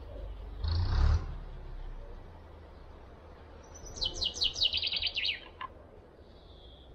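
A small bird gives a quick run of about ten falling chirps, starting about four seconds in. About a second in, there is a short, loud scuffing noise close to the microphone.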